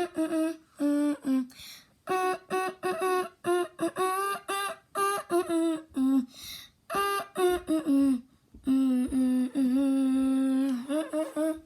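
A person's voice humming a tune in quick, short notes, several sliding down in pitch at their ends, with one long held note of about two seconds later on.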